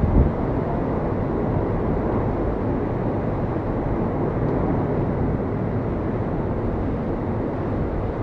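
Hurricane wind and surf: a steady low rushing noise with wind buffeting the microphone, and a brief stronger gust just at the start.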